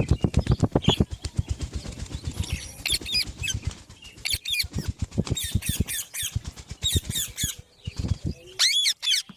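Rose-ringed (Indian ringneck) parakeet flapping its wings rapidly, about ten beats a second, for the first few seconds, then giving harsh screeching calls five or six times, with more short spells of wing-flapping between them.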